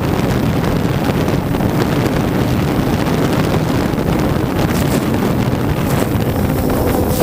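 Strong wind buffeting the camera's microphone: loud, low, constant noise that surges and falls with the gusts.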